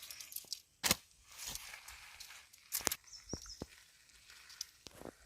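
A few sharp knocks and clicks with rustling between them, the loudest about a second in and again near three seconds, and a brief high chirp just after.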